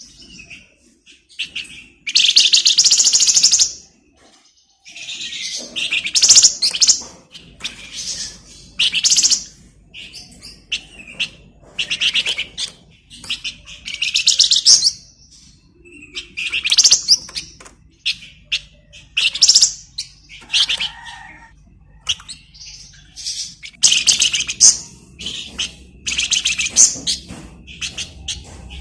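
A flamboyan songbird singing in a busy 'gacor' style. Its phrases are rapid, high rattling trills and chatters, each about half a second to two seconds long, repeated one after another with short pauses.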